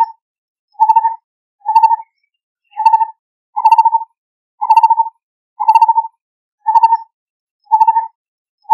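Lineated barbet calling: a steady series of short, hollow notes, each with a quick trill inside it, repeated about once a second.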